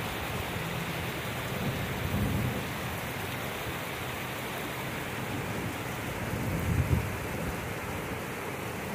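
Heavy rain pouring down onto a paved street, a steady hiss, with low rumbles swelling about two seconds in and again near seven seconds.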